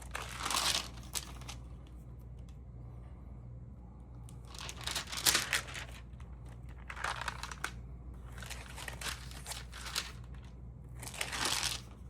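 Stamp album or stock book pages being handled and turned, crinkling and rustling in about five separate bursts over a low steady hum.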